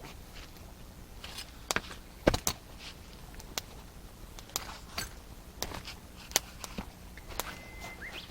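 Wood fire crackling, with irregular sharp pops and clicks and one louder knock about two seconds in. Near the end there is a short thin whistle that rises in pitch.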